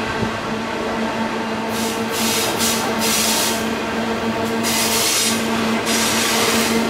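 Norfolk Southern double-stack container train's loaded well cars rolling slowly past: a continuous rumble of steel wheels on the rails with a steady low hum, and hissing, scraping spells from the running gear about two seconds and five seconds in.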